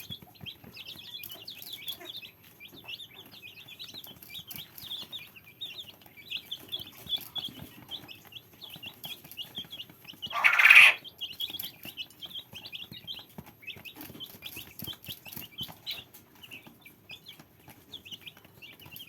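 A brood of fluffy young chicks peeping, many short high cheeps overlapping without pause. About ten seconds in, one louder, longer call stands out.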